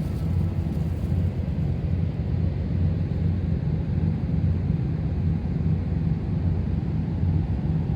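Steady low engine rumble with a slight pulsing, holding at an even level.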